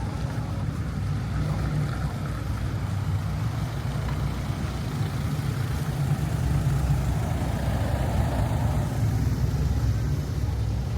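Steady low rumble of outdoor street noise, a little louder from about halfway through.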